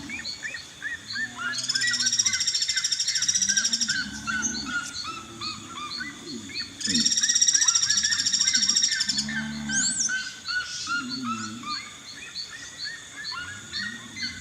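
A chorus of wild birds, with many small birds chirping over and over. Two long, loud buzzing trills come about two seconds in and again near the middle, over low hooting calls that repeat every second or two.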